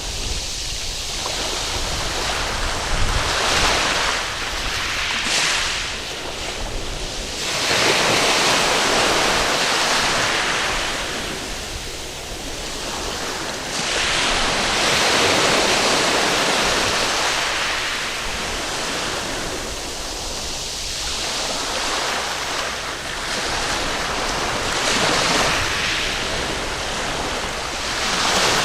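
Waves breaking and washing up on a sandy beach, in surges that swell and fall back every few seconds, with some wind on the microphone.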